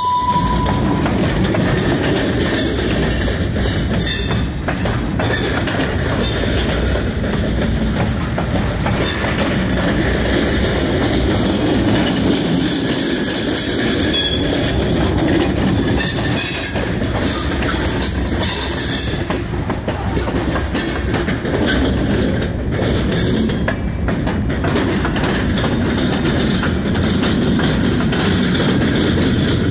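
Freight cars of a Norfolk Southern train rolling past at close range: a steady loud rumble of steel wheels on rail, with some clickety-clack and high-pitched wheel squeal that comes and goes.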